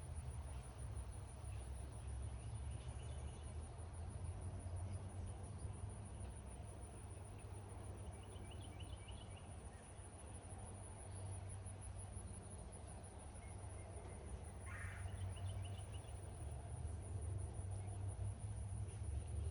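Steady rain falling on an open meadow, with insects trilling continuously high up and a few short bird chirps, including a brief rattling call near the end.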